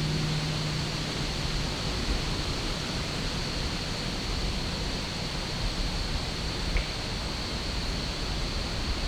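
Steady rushing noise of wind through the woods, with a thin high tone held throughout and a low hum that fades out about two seconds in.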